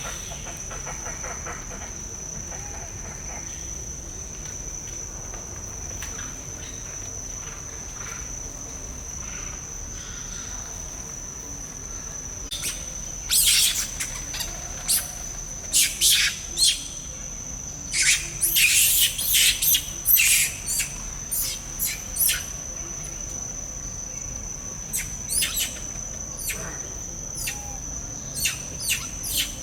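A steady high-pitched insect drone in the background, with clusters of loud, sharp chirping calls starting a little under halfway in, densest in the middle, then thinning to scattered chirps.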